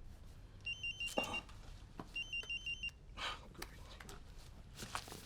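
Mobile phone ringing with an electronic ring: two short bursts of rapid high beeps, each lasting under a second, about a second apart. Faint rustling sounds lie in between.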